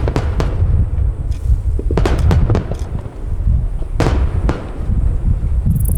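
Aerial fireworks shells bursting: sharp cracks at the start, a quick cluster about two seconds in and two more around four seconds in, over a continuous low rumble of booms.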